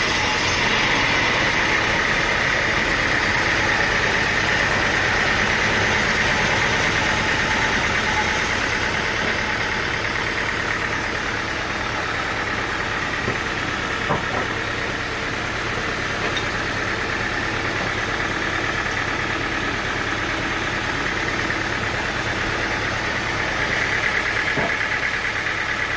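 Sawmill engine running steadily, with a couple of sharp knocks about halfway through.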